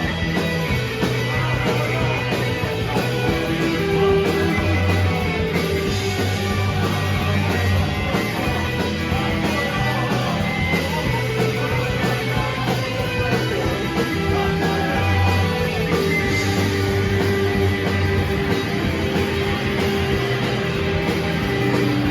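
Rock band playing loud and continuously live, guitar-driven with bass and drums.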